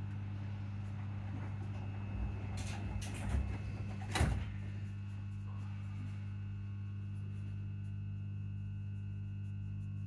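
Steady low electric hum from the traction transformer of a ScotRail Class 334 electric multiple unit. A few knocks and clunks come about two to four seconds in, the loudest a sharp clatter at about four seconds.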